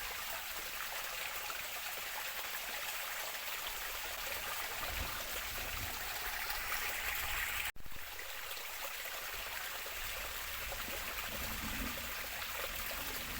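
Steady rush of water in the forest, an even hiss with no pauses, briefly cut off about eight seconds in.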